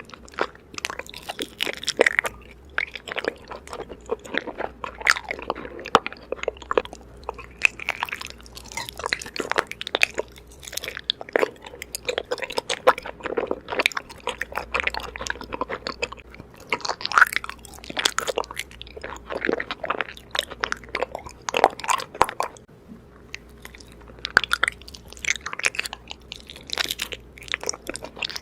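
Raw honeycomb being bitten and chewed: a dense run of irregular crunching and crackling, with a short lull partway through.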